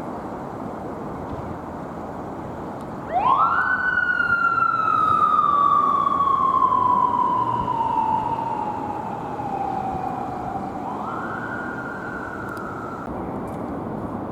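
Japanese police motorcycle siren starting about three seconds in. It rises quickly in pitch, falls slowly for several seconds, then rises once more and cuts off near the end. Steady traffic noise runs underneath.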